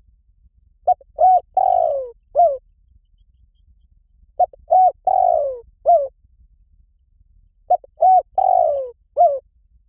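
Spotted dove cooing: three phrases, about three and a half seconds apart, each made of short coos, one longer drawn-out note falling in pitch, and a final short coo.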